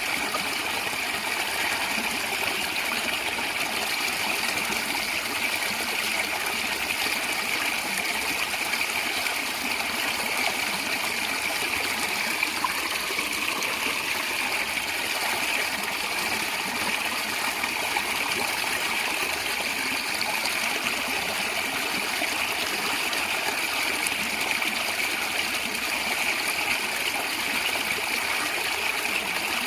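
Steady flowing water: a stream gurgling and trickling.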